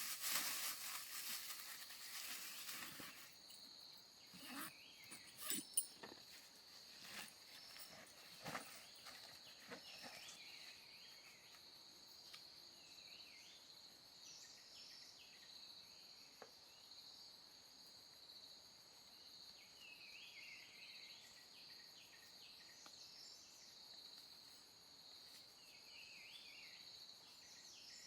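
Forest insects droning steadily at a high pitch, with short bird chirps now and then. In the first few seconds there is rustling, then a few sharp snaps or steps.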